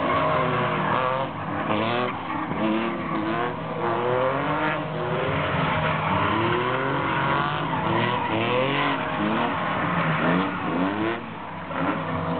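Porsche Boxster flat-six and TVR sports-car engines revving up and down in quick repeated surges as both cars spin donuts, with the rear tyres spinning and squealing on the tarmac.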